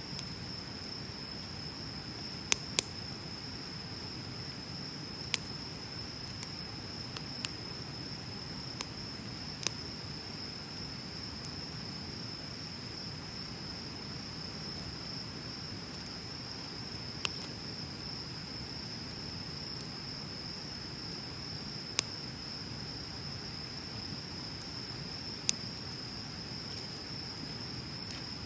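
Wood bonfire burning with a low hiss and sharp crackling pops every few seconds, over a steady high-pitched insect trill.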